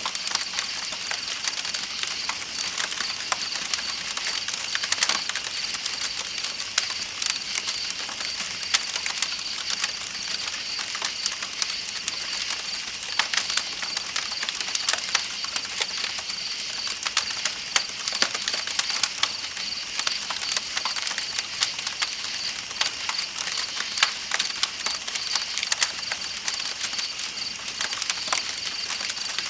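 Campfire crackling with frequent small sharp pops, over a steady rush of flowing river water and a constant high-pitched trilling of night insects.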